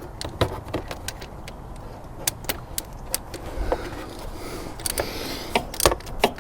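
Metal tool clicks and clinks as a spark plug is worked loose and taken out of a motorbike engine: a string of sharp, irregular clicks.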